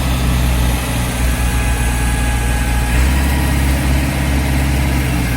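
Heavy diesel engine of a tractor or harvesting machine running steadily, a low even drone with no change in speed.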